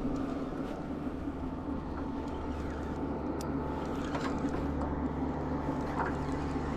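A small outboard motor, the boat's Yamaha 2.5 hp four-stroke, running at a steady low speed with an even hum.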